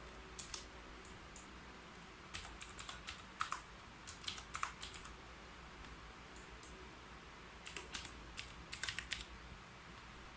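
Typing on a keyboard: quick runs of key clicks come in short bursts, with pauses of a second or so between them.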